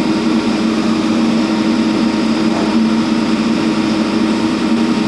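JCB construction machine's engine running steadily at a constant speed.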